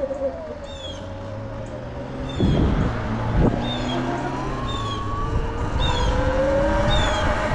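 Sur Ron electric dirt bike's motor whining while riding, its pitch gliding down and then up again with the throttle, over a steady low rumble. Two loud jolts come about two and a half and three and a half seconds in, and a short high falling chirp repeats about once a second.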